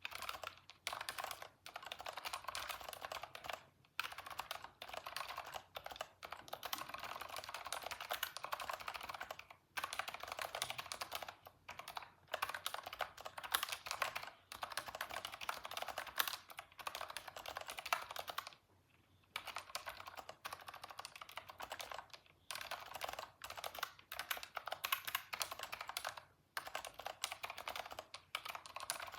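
Typing on a computer keyboard: fast runs of keystrokes broken by short pauses, the longest about two-thirds of the way through.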